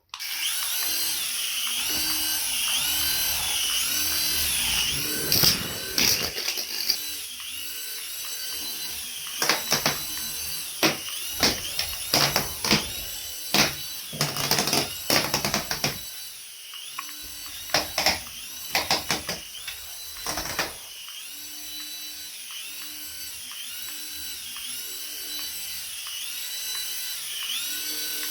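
Small electric motor of a radio-control toy whirring with a high whine whose pitch rises and falls over and over. A run of sharp plastic knocks and clatters comes in the middle.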